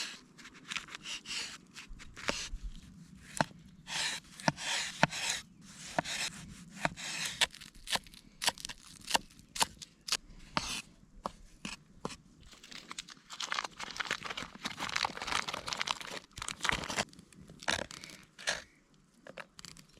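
Fresh vegetables being cut with a knife: irregular crisp crunches and tearing sounds with sharp knocks of the blade.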